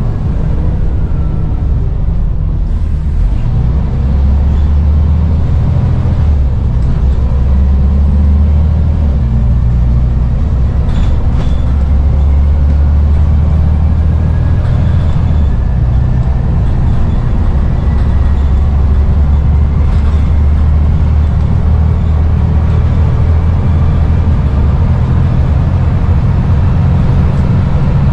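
Scania N94UD double-decker bus's diesel engine running under way, a loud, steady low rumble that rises and falls slightly as the bus drives.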